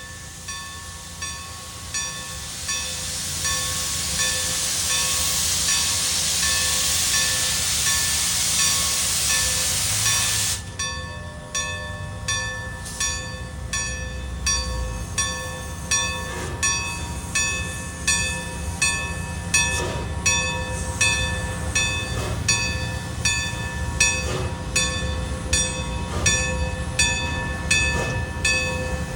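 Train passing, its wheels clicking over rail joints in a steady rhythm of a little over one click a second. A loud rushing hiss builds through the first ten seconds and cuts off suddenly.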